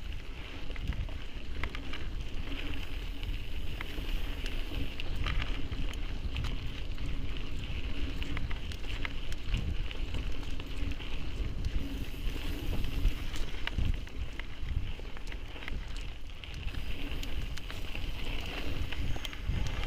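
Mountain bike riding down a rough trail: wind buffeting the microphone, with the bike rattling and tyres crunching over stones in scattered clicks and knocks.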